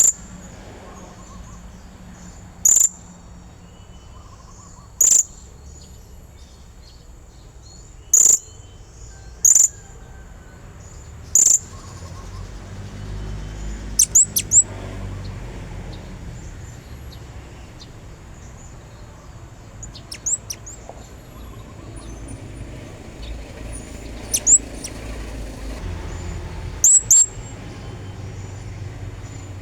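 Blue-crowned hanging parrot (serindit) giving sharp, high-pitched calls, single ones every two or three seconds, then from about halfway quick runs of two or three. A low rumble lies underneath, swelling about halfway and again near the end.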